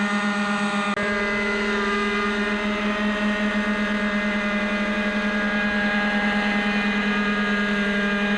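Glow-engine radio-controlled helicopter, a scale UH-1 Iroquois, running steadily with a rapid rotor flutter. The sound drops out briefly about a second in.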